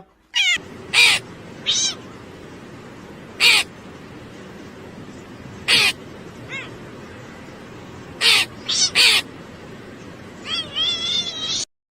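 A bird giving short, harsh caw-like calls, about seven of them spaced a second or two apart, then a longer wavering, warbling call near the end, over a steady background hiss.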